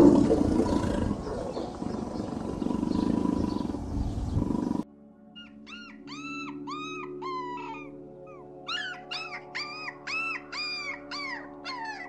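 A tiger growling, loudest at the start, for about five seconds. Then, after an abrupt cut, Shar Pei puppies give short high yelps: a few, then a quicker run of about eight.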